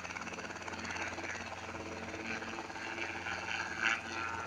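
Helicopter running, a steady low engine hum with a fast rhythmic rotor chop, and a short louder burst near the end.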